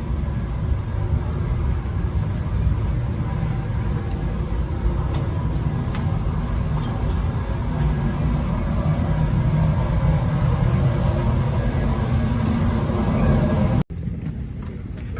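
Steady low vehicle rumble heard from inside a moving vehicle, swelling a little toward the end and cut off abruptly near the end.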